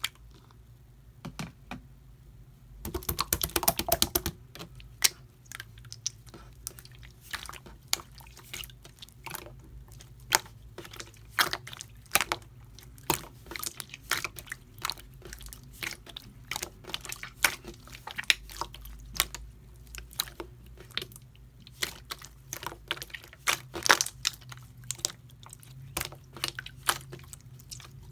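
Slime being squeezed and pressed by hand, giving a long run of sharp sticky clicks and pops, with a dense crackling cluster about three seconds in.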